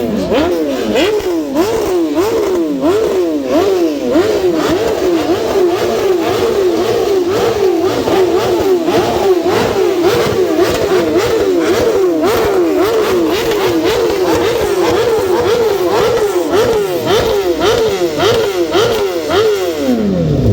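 BMW S1000RR inline-four engine through an Akrapovic GP exhaust, revved hard and held at high rpm. The revs rise and drop rhythmically about twice a second, as when the engine bounces off its rev limiter, then the revs fall away near the end.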